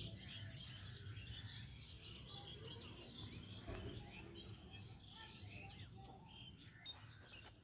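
Birds chirping faintly: many short, high chirps over a low background rumble.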